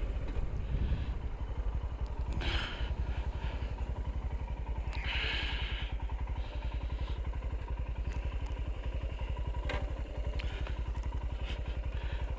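Royal Enfield Himalayan single-cylinder motorcycle engine idling with an even, rapid low pulse. Two short scuffs come about two and a half seconds and five seconds in.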